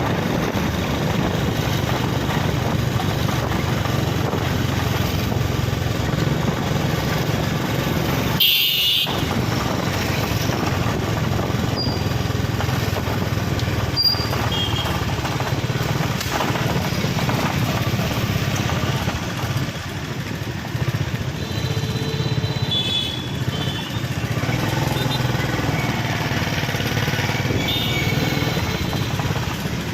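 Steady street traffic dominated by motorcycle engines running, with a few brief high-pitched tones and one short sharp sound about eight seconds in.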